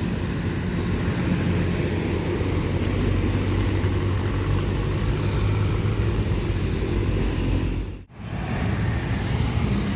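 Heavy diesel truck engine running past with a steady low drone. The sound drops out abruptly for a split second about eight seconds in, then resumes.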